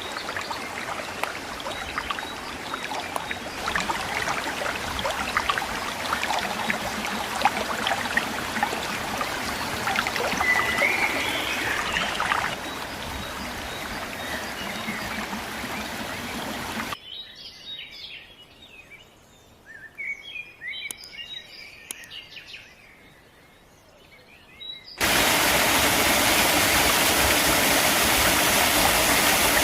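Outdoor ambience in three edited parts: a crackling rush like running water, then quieter bird chirps, then a loud steady rushing noise that cuts in suddenly near the end.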